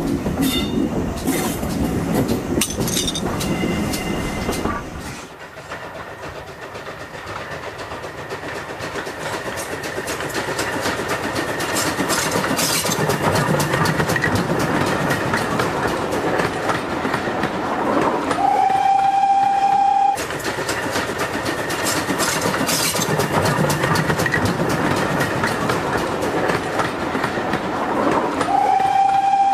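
A steam train running, wheels clattering on the rails, with a steam locomotive's whistle giving a single steady note twice, about eighteen seconds in and again near the end.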